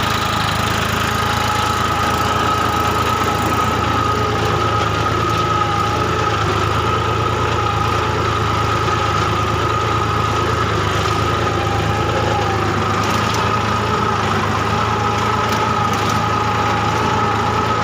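Massey Ferguson 246 DI Dynatrack tractor's three-cylinder diesel engine running at a constant speed, with a steady whine over the engine note.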